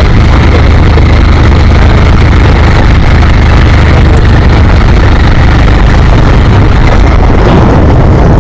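Motorbike engine running at a steady cruising speed while riding, loud and constant with a steady low hum.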